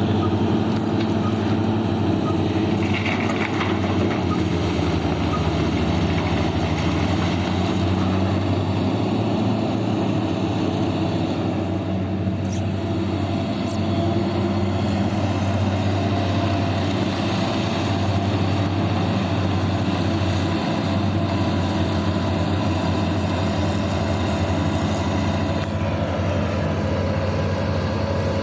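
Heavy diesel engine of a mining dump truck running steadily, a low continuous drone.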